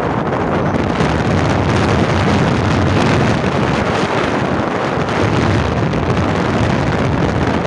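Loud wind buffeting the microphone while riding, with vehicle noise beneath it.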